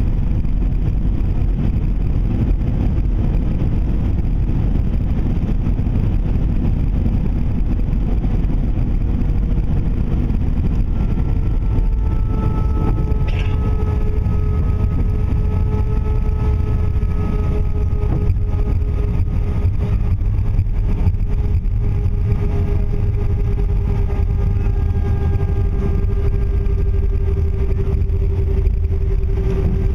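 Airbus A319 cabin noise on the ground after landing: a loud, steady low rumble of the engines and the airframe rolling. About a third of the way in, a few faint steady engine tones come in.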